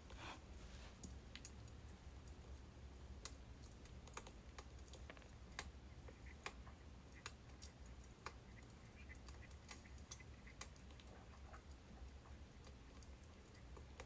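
Faint crackling of burning birch firewood: irregular sharp snaps and pops over a low steady hum.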